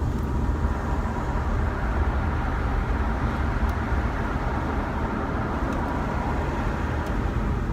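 Steady road noise of a car driving: a low rumble with a hiss above it.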